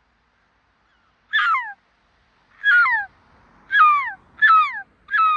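Seagull calls: five short, loud, downward-sliding cries in quick succession.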